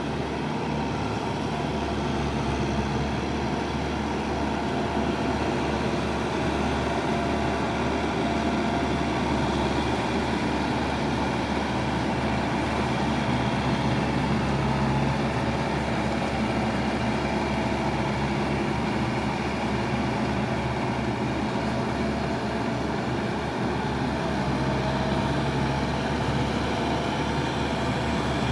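Kubota tractor's diesel engine running steadily at an even pitch.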